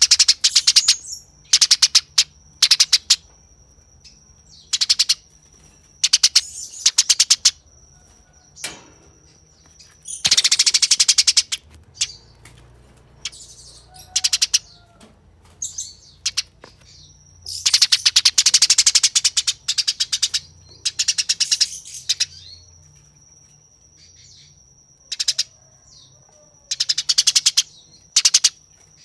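Eurasian tree sparrow giving fast, harsh, tightly packed chattering calls in repeated bursts of half a second to two seconds, separated by short pauses: the coarse, rapid chatter of a combative sparrow. A thin steady high tone runs beneath much of it.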